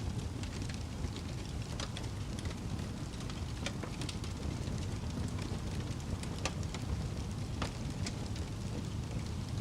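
A fire burning steadily, crackling, with sharp snaps scattered irregularly over a constant low rumble.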